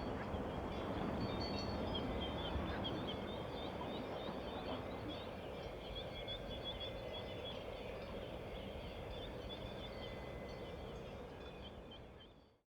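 A bird calling with many quick, high chirps in fast succession over steady low outdoor background noise; the sound fades out near the end.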